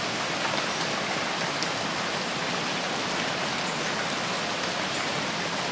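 Steady rain falling on a forest, an even patter with scattered individual drops, cut off abruptly at the very end.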